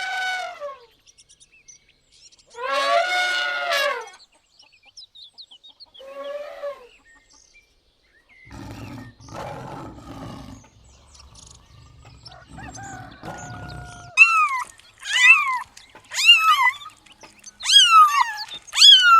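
A series of different animal calls in turn: a few separate pitched, falling calls, then some rougher low sounds, and in the last few seconds a quick run of pitched calls that fall in pitch, about one a second.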